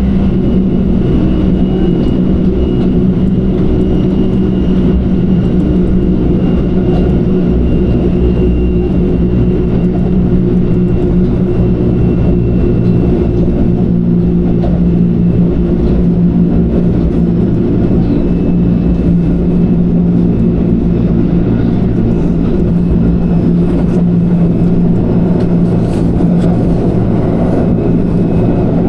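Kintetsu Kyoto Line electric commuter train running between stations, heard from inside the carriage: a steady, loud rumble of wheels on rail with a constant motor hum and a faint high whine.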